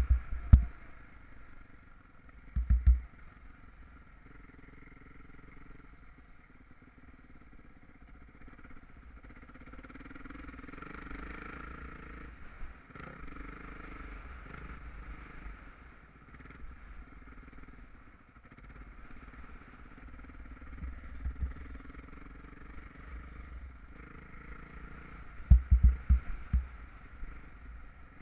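Motocross bike engine running at a distance, swelling louder twice as it revs, with a few loud, low thumps about three seconds in and again near the end.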